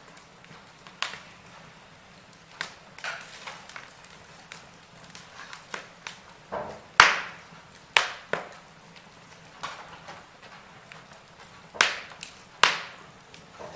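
Wood fire crackling in a fireplace, with irregular sharp pops over a soft hiss; the loudest pops come about halfway through and twice near the end.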